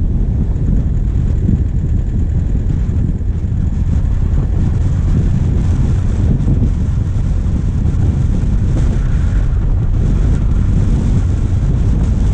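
Wind buffeting a bonnet-mounted camera's microphone over the steady running of a vehicle's diesel engine, a dense, continuous low rumble while driving.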